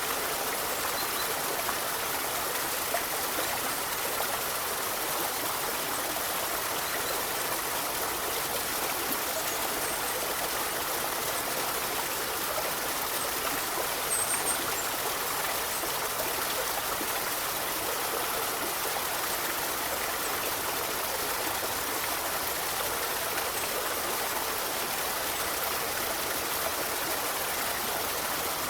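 Forest river flowing steadily: an even rushing and trickling of running water, with one brief faint high chirp about halfway through.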